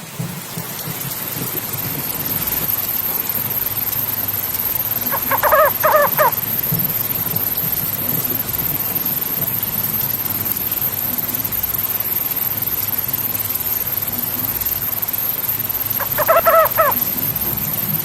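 A crow cawing over a steady rushing background: a quick run of harsh caws about five seconds in, and another near the end.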